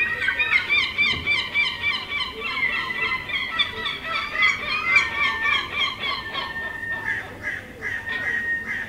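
A flock of gulls calling, many short overlapping calls repeated several times a second, thinning out and growing quieter near the end.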